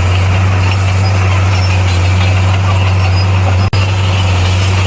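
Bulldozer's diesel engine running steadily with a deep, even hum, broken by a brief dropout about three and a half seconds in.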